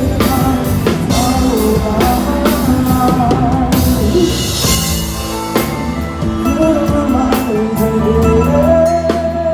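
Live band music: a singer's wavering melody over a drum kit and guitar, at a steady loud level.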